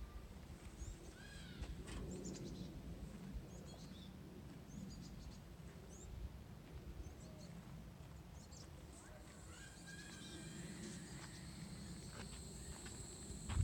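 Outdoor ambience: a low steady rumble with scattered short bird-like chirps and a few clicks, and a faint high hiss that comes in near the end.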